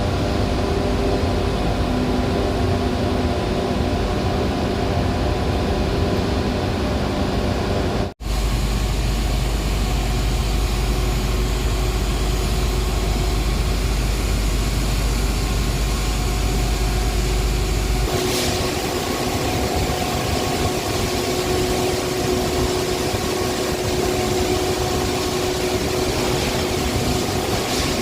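Steady industrial machinery running, a loud hum with several steady tones. It cuts out for an instant about 8 seconds in and returns with a strong deep drone, then changes character again about 18 seconds in, as the sound switches between different machines.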